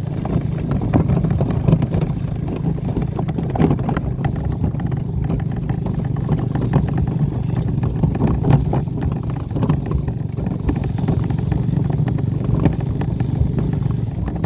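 Dirt bike engine running steadily while it tows a wagon over rough ground, with a constant rattle and many small knocks.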